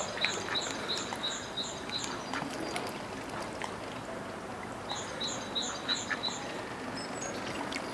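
A water bird calling in quick runs of short, high, evenly spaced notes, about four a second. One run lasts about two seconds and another starts about five seconds in.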